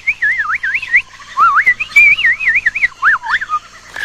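Bird-like whistling: one clear tone warbling quickly up and down in a string of short phrases, with brief breaks between them.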